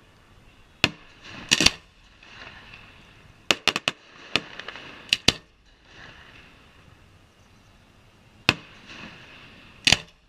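Aerial fireworks shells bursting: sharp, irregular bangs, some single and some in quick clusters of two to four, with a lull of about three seconds in the middle.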